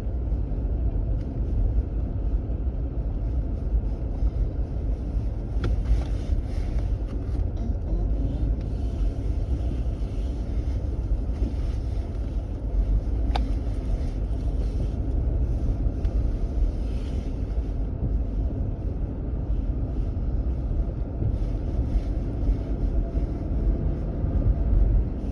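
Steady low rumble of a car's interior on the move, with a couple of light clicks.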